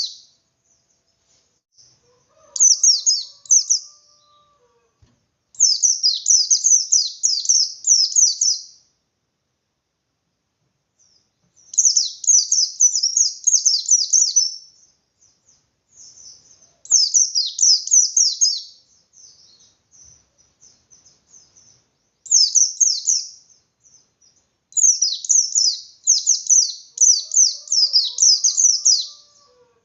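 A pleci bustomi (white-eye) singing its fast, high, twittering ngalas song in repeated bursts of one to three seconds with short pauses between them. This is an agitated, full-on song of the kind played to provoke other white-eyes into answering.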